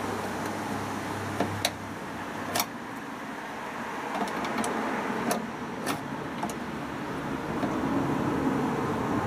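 Several sharp clicks and knocks, about six in all, spread over the first two-thirds, from parts of a washing machine being handled during repair, over a steady background hum.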